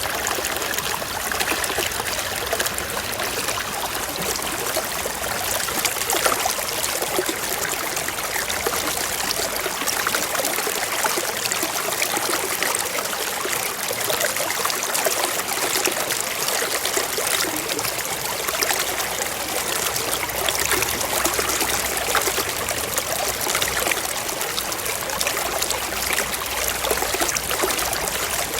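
Forest stream flowing steadily over rocks, a constant burbling and splashing of water.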